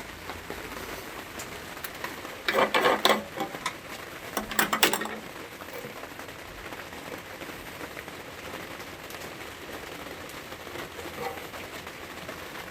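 Steady rain falling on hard surfaces. Two short, louder bursts of rattling mechanical noise come about two and a half and four and a half seconds in.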